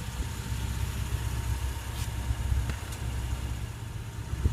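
A steady low rumble, like an engine idling, with a few faint clicks.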